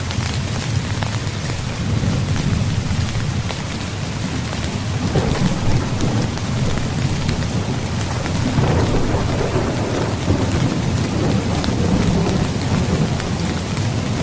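Steady rain falling on a tent's fabric, with the ticks of single drops, under low rolling thunder that swells about five seconds in and again past eight seconds.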